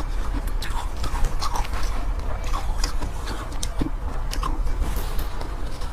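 Soft, powdery ice being bitten and chewed close to the microphone: a run of irregular crisp crunches and crackles over a steady low hum.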